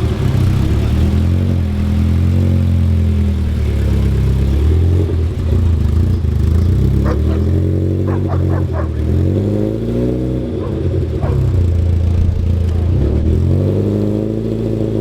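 A car engine running loudly close by, mostly at a steady idle, with its pitch rising and falling back in a few short revs around the middle.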